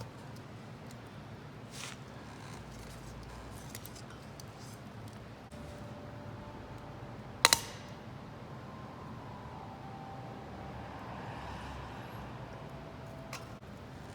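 Wood fire burning in a homemade Solo Stove-style can stove, a steady low rush with faint thin whistling tones in the second half. One sharp metallic clink rings out about halfway through, with a few lighter ticks around it.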